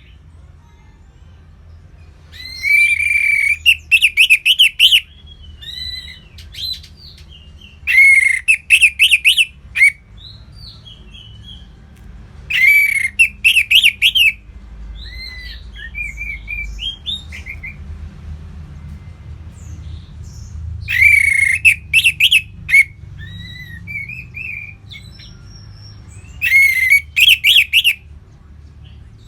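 A songbird singing loud phrases about every five seconds, five in all. Each phrase is a clear whistled note running into quick warbling notes and sharp clicks, with softer scattered notes in between.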